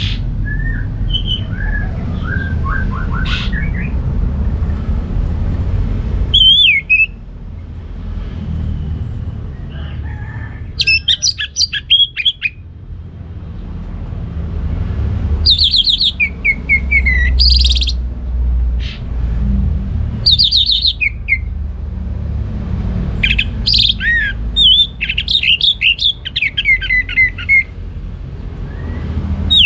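Orange-headed thrush singing in bursts of quick, varied high phrases, with short pauses of a few seconds between bursts, over a steady low rumble.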